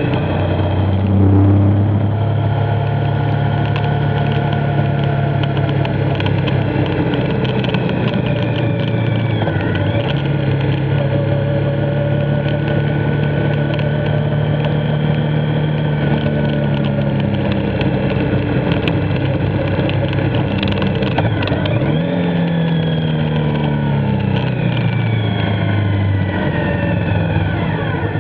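Motorcycle engine running at road speed under a steady rush of wind and road noise. Its pitch drops sharply about ten seconds in, falls in several steps between about 22 and 25 seconds as the bike slows and changes down, and rises again near the end.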